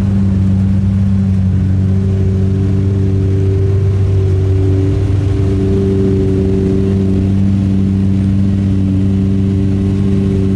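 A car engine idling steadily close by, a low even drone that holds one pitch throughout.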